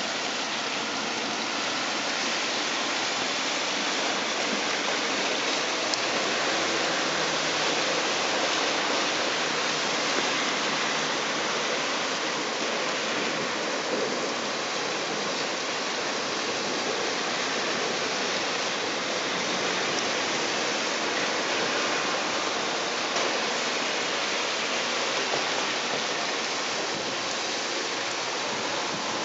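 Heavy thunderstorm rain and storm water running, a steady rushing noise.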